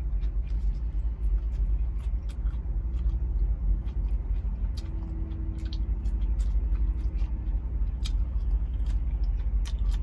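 Steady low rumble of a semi-truck's engine idling, heard inside the cab, with scattered small clicks and taps over it.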